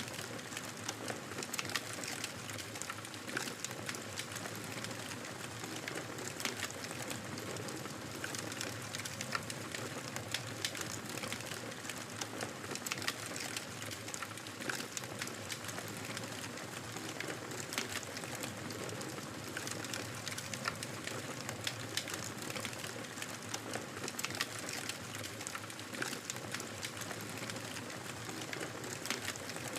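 Fireplace fire crackling steadily: a soft, even hiss with frequent short, sharp pops and snaps scattered irregularly through it.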